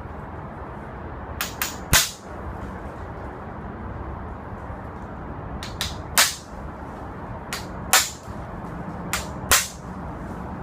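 Four sharp knocks, roughly one and a half to four seconds apart, each coming just after one or two lighter taps, over a steady low hum. They are typical of striking while working seized, rusted parts loose.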